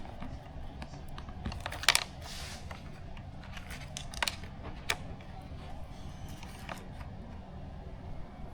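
Scattered light clicks and taps of small screws and plastic model parts being handled on a work surface, the sharpest about two seconds in.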